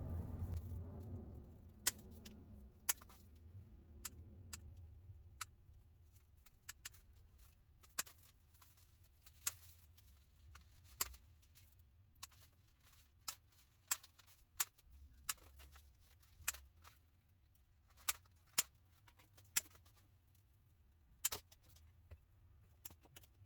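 Sharp small clicks and light taps at irregular intervals, usually one to two seconds apart, from handling materials while making a wreath, over a faint low hum.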